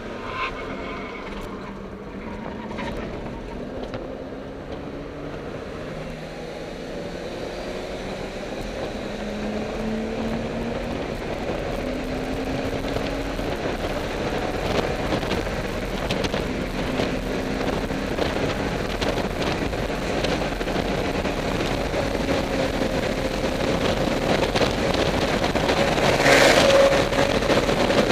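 A BMW's engine heard from inside the cabin at racing speed, its pitch climbing in steps as it pulls up through the gears, then holding steady at speed. Wind and road noise grow louder with speed, with a brief loud rush of noise near the end.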